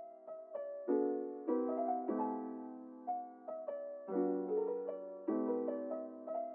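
Background piano music: soft chords and melody notes struck about once a second, each fading away.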